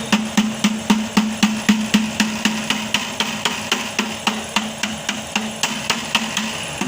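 Hammer tapping repeatedly on the sides of a Hino truck's silencer box, about four even strikes a second, each with a short metallic ring. The silencer box is the part blamed for the truck's black smoke and slow pickup.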